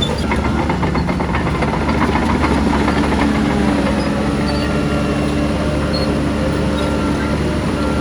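Heavy diesel engine of a crawler bulldozer running steadily, with a deep, even hum. Rattling clanks, typical of steel tracks, come in the first couple of seconds.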